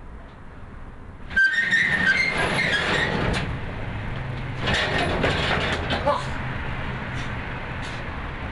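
Metal roll-up storage-unit door rattling and squealing as it is pushed open, starting suddenly about a second and a half in, with more metallic clatter a few seconds later.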